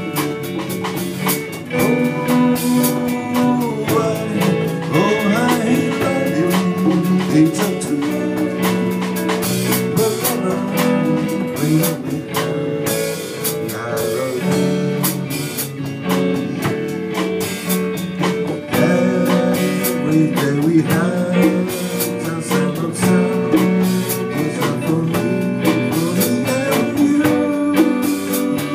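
Band music with electric guitar and drum kit playing a passage with no recognisable lyrics.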